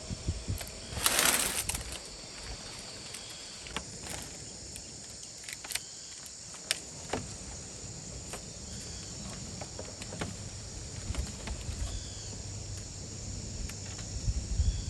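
Outdoor rural ambience with a steady high insect drone. A brief rustling rush comes about a second in, and there are scattered light clicks and taps.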